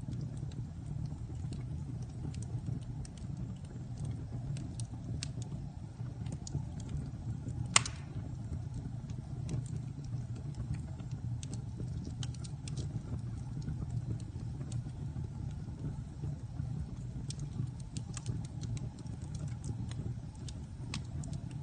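Wood fire burning in a fireplace: scattered crackles over a low steady rumble, with one sharp, loud pop about eight seconds in.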